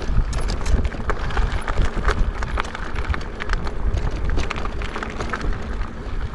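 Wind rumbling on the microphone of a moving e-bike, with many irregular clicks and knocks from the bike rattling over the road surface.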